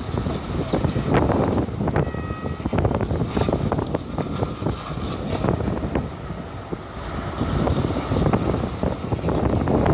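HST Mark 3 passenger coaches rolling slowly past, their wheels clattering over the rail joints with a steady rumble, and wind buffeting the microphone. A brief high tone sounds about two seconds in, and the rumble grows louder near the end as the rear Class 43 power car draws near.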